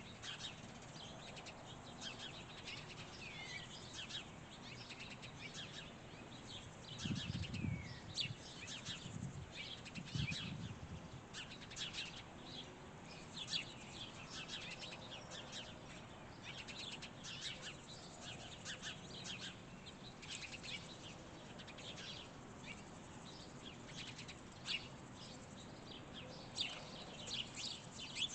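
Small songbirds chirping and calling, many short chirps and a few falling notes, with two brief low rumbles about a quarter and a third of the way through.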